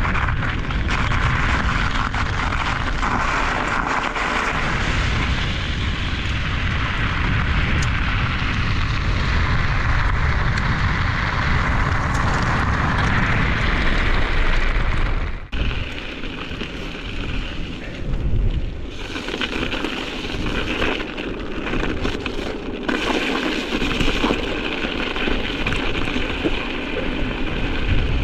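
Strong wind buffeting the microphone on a moving bike: a loud, continuous rumbling rush. About halfway through it cuts off abruptly and comes back more uneven and gusty.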